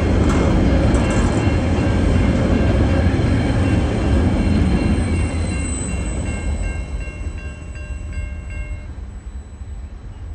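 Freight train of coal hopper wagons rolling over a level crossing: a heavy rumble of wheels on rail that fades away from about five seconds in. A high steady ringing carries on until about nine seconds in.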